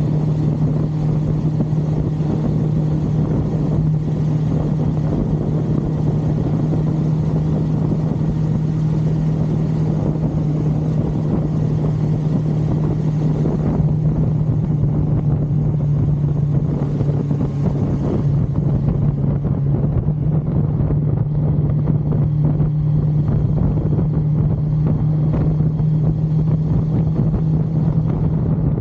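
1982 Suzuki GS550L's air-cooled inline-four engine running at a steady cruise, its note holding at one even pitch, with wind rushing over the microphone.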